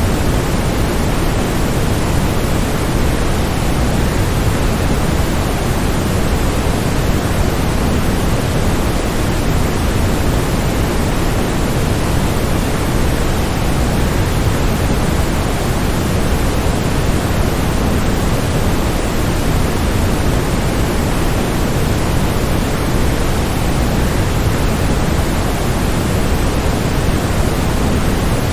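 Waterfall noise: a steady, unbroken rush of falling water, heaviest in the low end and unchanging throughout.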